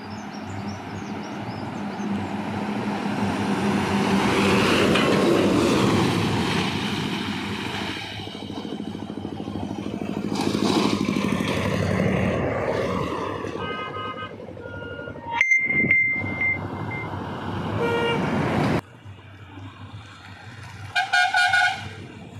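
Heavy trucks passing at speed on a highway, their engine and tyre noise swelling and fading twice. In the second half several short horn blasts sound, the last two close together near the end.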